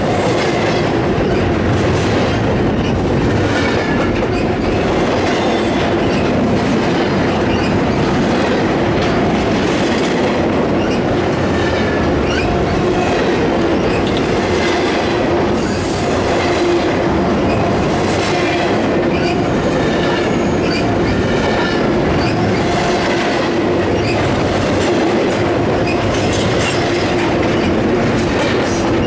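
Empty intermodal well cars of a Union Pacific freight train rolling past at close range: a steady clatter of steel wheels over the rail, with faint squealing tones from the wheels.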